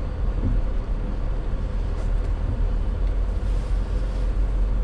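A Jeep driving slowly on a snowy road: a steady, low rumble of engine and tyres with a faint even hum.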